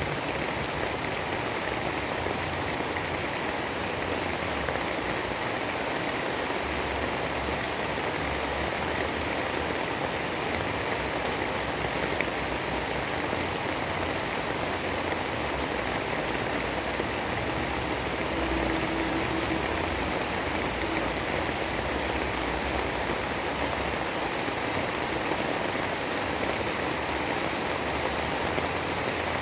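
Steady, even hiss of rain in a storm ambience, with an uneven low rumble underneath.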